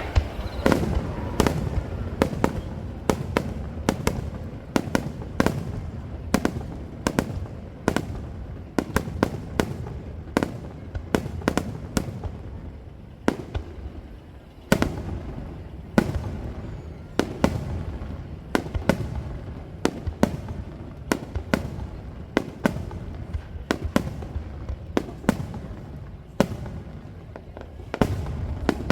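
Starmine fireworks barrage: aerial shells fired and bursting in rapid succession, dozens of sharp bangs, some in quick clusters, over a continuous low rumble.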